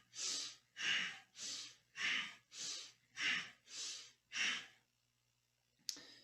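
A person breathing deeply and forcefully through the nose in a steady rhythm, inhaling and exhaling in turn a little under twice a second, each breath paced by a seated Kundalini yoga spinal twist: inhale turning left, exhale twisting right. The breathing stops about three-quarters of the way through, and a small click follows near the end.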